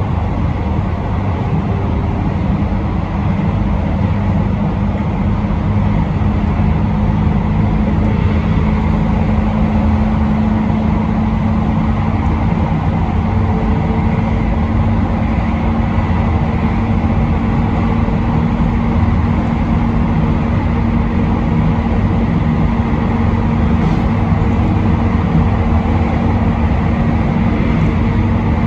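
Electric train running steadily, heard from inside the front car: a continuous rumble of wheels on rail with a steady motor hum, and a fainter higher tone joining about halfway through.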